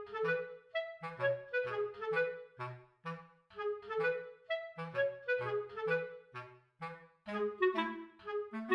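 Light, bouncy background music: a clarinet-like woodwind melody in short, detached notes over a bass line that alternates low notes in a steady rhythm.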